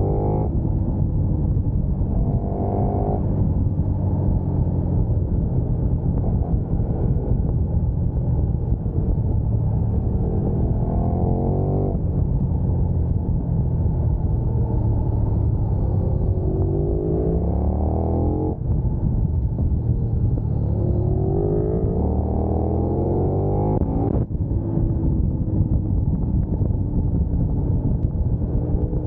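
KTM 1290 Super Duke R's big V-twin engine pulling hard through the gears. Its pitch climbs and drops sharply at each upshift, several times over, under a heavy rumble of wind on the microphone.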